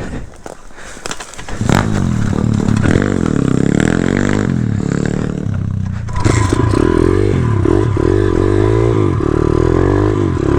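Pit bike's small single-cylinder four-stroke engine revving up and down over and over as the rider works the throttle on a tight trail. The first couple of seconds are quieter, with clattering and scraping, before the engine comes up loud; a steady high whine joins about halfway through.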